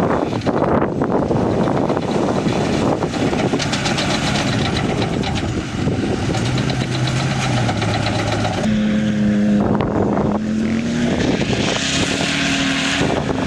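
Off-road vehicle engines running on sand dunes, with wind on the microphone. Past the middle, an engine note rises slowly in pitch as a machine speeds up.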